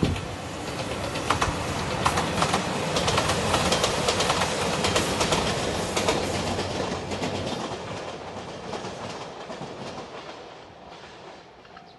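A JR Anpanman-painted limited-express train passing: running noise with wheels clacking over the rail joints, loudest a few seconds in, then fading as it moves away.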